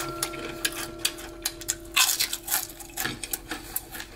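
Fried potato chips being chewed with the mouth closed: a fast, irregular run of small dry crunches. Over the first three seconds or so a long, steady hummed 'mmm' of enjoyment sounds with it.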